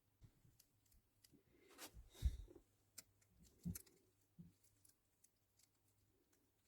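Faint clicks and light taps of small parts being handled while a bicycle shifter is worked on, with a louder knock about two seconds in and another a second or so later.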